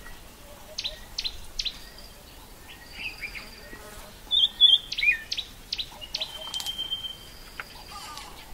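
Wild birds calling: repeated short, sharp down-slurred chirps, a louder burst of chirps about halfway through, and a thin held whistle a little after it.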